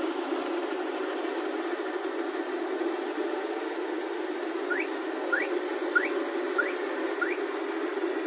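Kubota rice combine harvester running with a steady hum. About halfway through there are five short rising chirps, roughly half a second apart.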